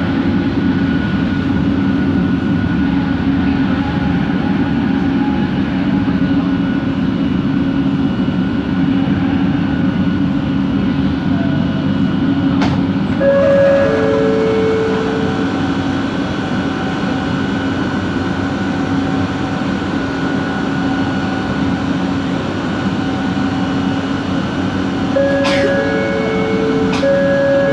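Kelana Jaya Line LRT carriage running, with a loud steady rumble and the motors' held humming and whining tones. About 13 seconds in, a click is followed by a two-note chime. Near the end, another click and the chime come again, played twice over.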